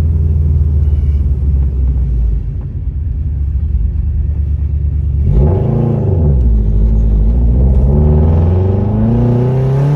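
Loud aftermarket exhaust of a turbocharged Subaru Forester XT's flat-four boxer engine, heard from inside the cabin: a steady low drone while cruising off boost, then about five seconds in a quick rise and fall in revs, followed by the engine pitch climbing steadily as the car accelerates.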